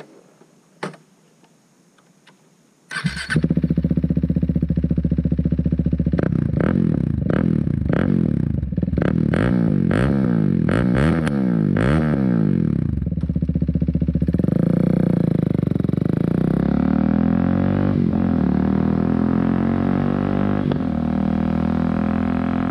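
KTM 390 Duke's single-cylinder engine breathing through an aftermarket MIVV exhaust. It starts about three seconds in, is revved in a run of quick throttle blips, then settles to a steadier idle.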